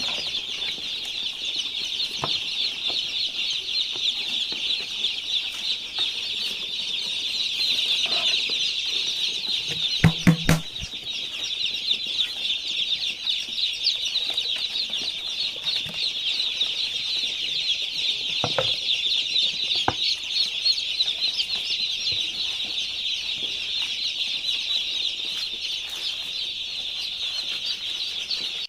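A flock of day-old broiler chicks peeping constantly in high, overlapping chirps. The chicks are stressed after a long, hot journey in their cartons. A few sharp knocks come about ten seconds in, with single clicks later on.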